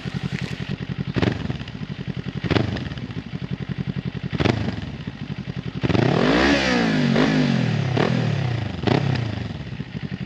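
2021 Kawasaki Ninja 400's parallel-twin engine idling through an Akrapovic carbon-fiber slip-on exhaust with the baffle in, heard from about 40 feet away. The rider blips the throttle several times, with one longer rev about six seconds in that climbs and falls back to idle.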